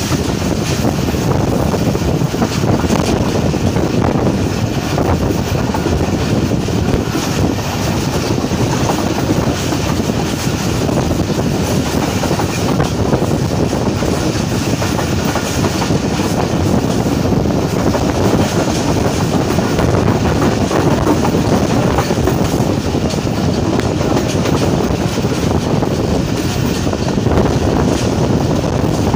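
A train running on the rails: a steady rumble of wheels on track with some clickety-clack.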